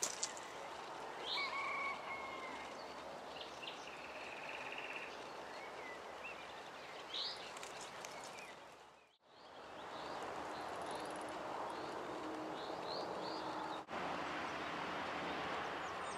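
Songbirds chirping and calling in short phrases, with a short trill, over steady outdoor background noise. The sound drops out briefly about nine seconds in.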